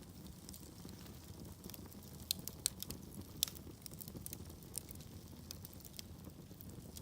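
Wood fire in a fireplace crackling over a steady low rumble of the flames, with scattered sharp pops, a quick cluster of louder snaps about two and a half to three and a half seconds in.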